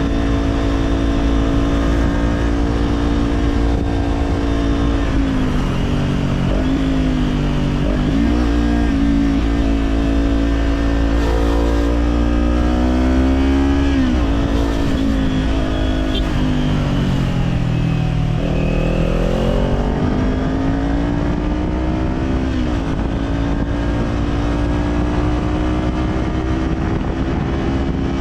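Kawasaki Z400 parallel-twin engine through an Orion Katya slip-on exhaust, riding along at a steady pitch that falls and climbs back several times as the throttle eases and opens, with the deepest dip about two-thirds through. A steady low wind rumble runs underneath.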